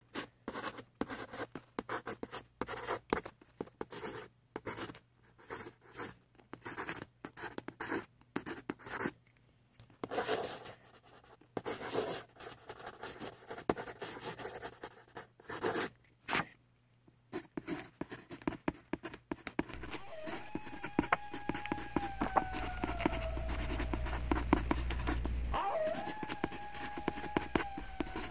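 Graphite pencil shading on paper: rapid, irregular scratchy strokes in quick runs with short pauses. Over the last several seconds a low hum and a faint held tone, sagging slightly in pitch, come in twice beneath the strokes.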